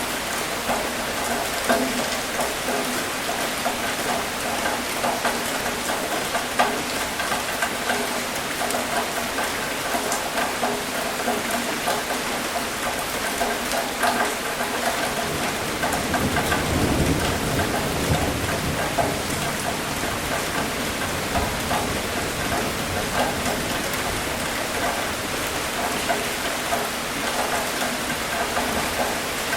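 Steady rain falling, with many separate drops ticking close by. A low rumble of thunder swells and fades a little past halfway.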